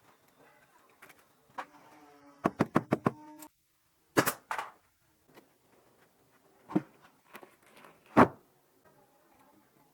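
Sharp knocks and taps. A quick run of about seven taps comes near the middle, followed by a few single louder knocks spaced a second or more apart.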